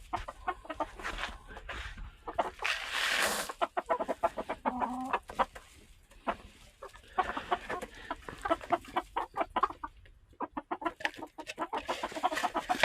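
Silkie chickens clucking, a steady run of short calls, with a brief burst of noise about three seconds in.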